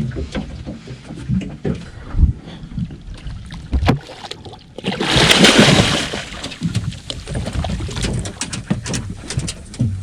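Repeated knocks and rattles in a small fishing boat, with a rushing, splash-like noise for about a second midway.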